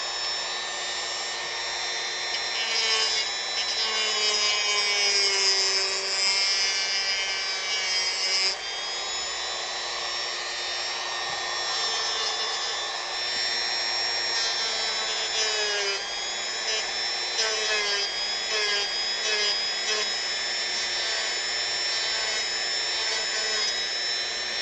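Dremel rotary tool running continuously while carving and rounding a wooden rifle model. It gives a high motor whine whose pitch and strength shift as the bit is worked against the wood, with a noticeable change about eight seconds in.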